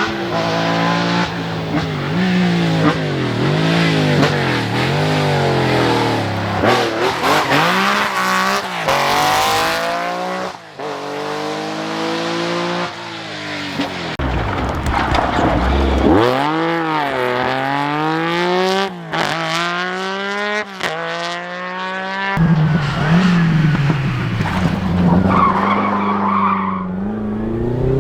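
Rally car engines revving hard, the pitch climbing and dropping again and again with throttle and gear changes, several cars one after another.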